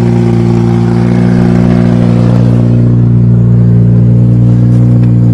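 Toyota GTS engine running at a steady speed, freshly fitted with a new timing belt. The pitch holds even throughout.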